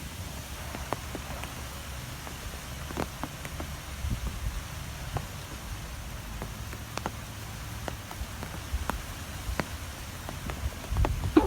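Strong wind buffeting with a steady low rumble, scattered with sharp irregular taps, and a louder gust near the end.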